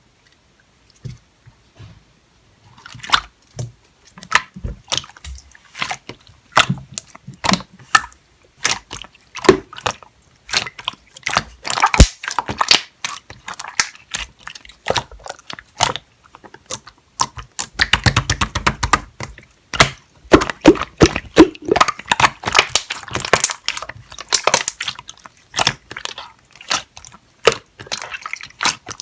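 Clear slime being squeezed, poked and stretched by hand: a quick run of wet clicks, pops and crackles, starting faintly about a second in and growing dense, with a busier crackling stretch about two-thirds of the way through.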